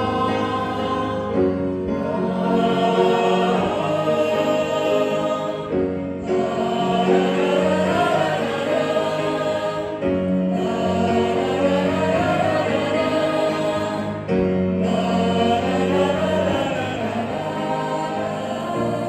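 A choir singing sustained chords in phrases of about four seconds, with a melody line moving above them and a short break between phrases.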